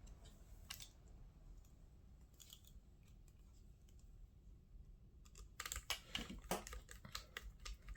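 Faint light clicks and taps of small parts and tools being handled on a work table, growing busier in the last couple of seconds.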